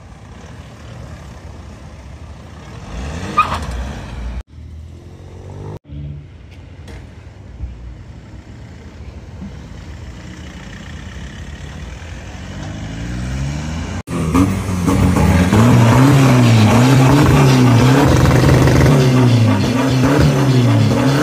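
A Volkswagen Jetta's engine, most likely a diesel since its exhaust is pouring black smoke, revved again and again from idle, its pitch rising and falling about once every second and a half through the last several seconds. Before that come quieter engines idling and moving around a car park, broken by a couple of cuts.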